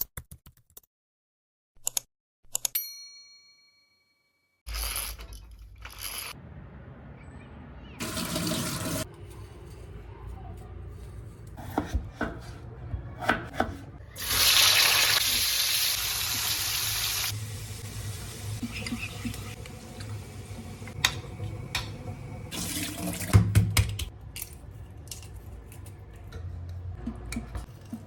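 Household handling sounds with scattered clicks and knocks, and a water tap running into a sink for about three seconds past the middle. A short ringing chime sounds near the start, after a few seconds of near silence.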